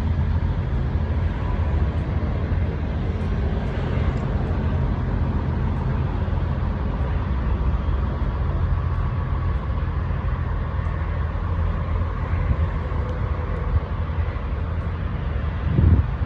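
Truck engine running steadily with a low rumble, and a brief louder burst near the end.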